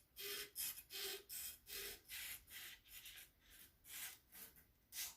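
Steel universal curette drawn against a sharpening stone: faint, rhythmic scraping strokes, about two a second, as the toe of the blade is rounded.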